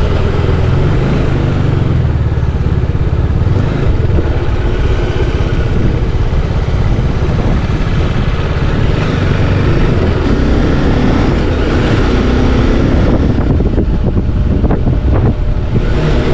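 Motorcycle riding along at a steady pace, its engine running under a heavy, even rumble of wind on the microphone.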